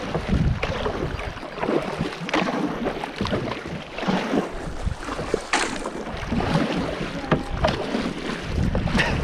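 Kayak paddle strokes splashing repeatedly through moving river water, with wind buffeting the microphone at times.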